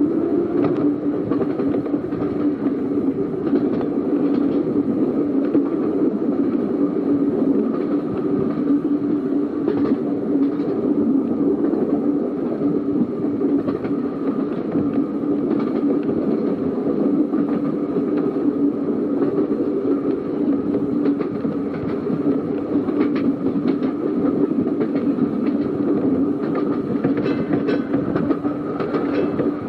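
Electric tram on the Seaton Tramway's narrow-gauge line running at a steady speed: a steady traction-motor whine over the rumble of the wheels, with scattered clicks of the wheels over rail joints.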